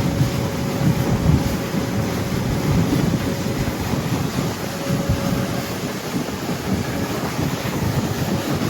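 A motorboat under way: wind buffeting the microphone over the boat's engine and the rush of water along the hull.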